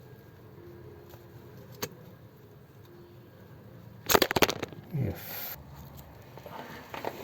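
A sudden, brief clatter of rattling knocks about four seconds in, followed by a short sound falling in pitch: handling noise while topping up the gearbox oil. A single click comes before it.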